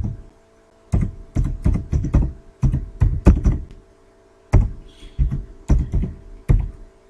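Typing on a computer keyboard: two runs of keystrokes with a brief pause between them.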